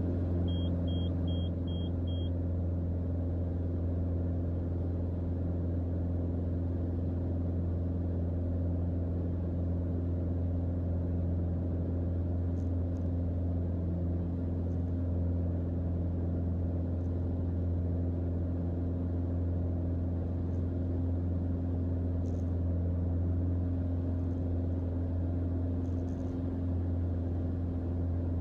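Cockpit drone of a Mooney M20J's four-cylinder Lycoming engine and propeller in cruise flight, steady and unchanging.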